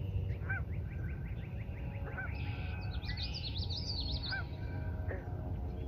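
Marsh birds calling: a short honking call repeated every second or two, with quick chattering notes and a higher trilled song in between, over a steady low rumble.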